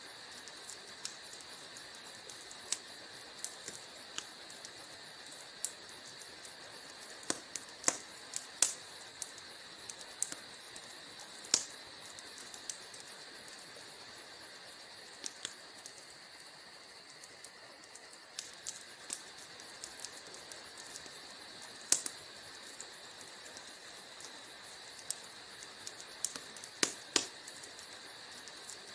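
Wood fire in a fireplace crackling: irregular sharp pops and snaps, a few of them much louder, over a steady soft hiss.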